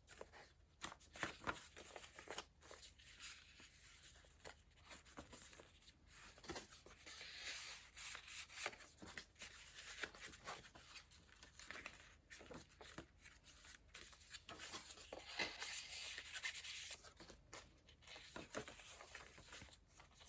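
Paper pages of a handmade junk journal being turned and handled: faint rustling with many light taps and clicks, and two longer rustles of pages sliding, about seven and sixteen seconds in.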